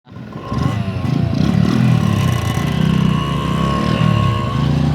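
Small motorcycle engine running, its pitch rising and falling as the throttle is worked.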